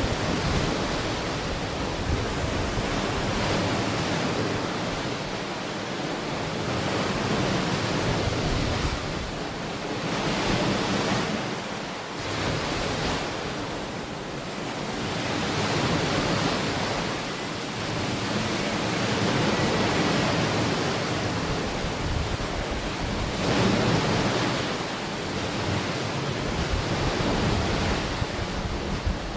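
Ocean waves washing onto a beach, a continuous rushing surf that swells and eases every few seconds, with some wind on the microphone.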